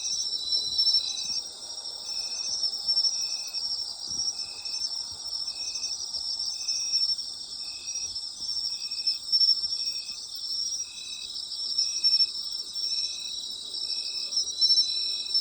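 A chorus of autumn night insects, crickets among them, trilling continuously, with one insect chirping in a steady rhythm about once a second at a lower pitch.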